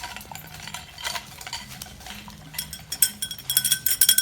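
Light metallic clinking and scraping, then from about two and a half seconds in a fast run of ringing metal clinks that grows louder.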